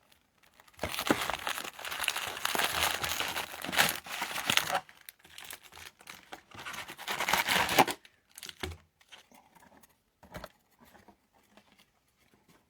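Packaging of a Topps Chrome trading card hobby box being torn and crinkled: two long stretches of crackling tearing, then a few scattered light clicks of handling near the end.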